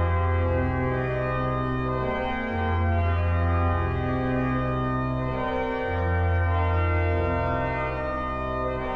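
Pipe organ playing slow, sustained chords, with a deep pedal bass note held for stretches of about three seconds and changing between them.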